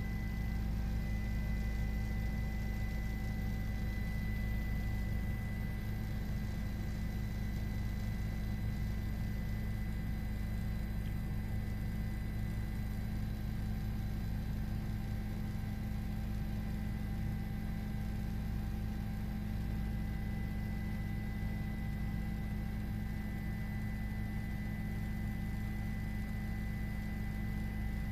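Steady drone inside a news helicopter: a constant low rumble with a few thin, unchanging whine tones above it.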